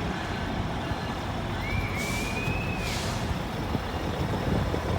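Heavy vehicle engine running with a steady low rumble. About two seconds in there is a brief high squeal with a short hiss of air at its start and end, like air brakes.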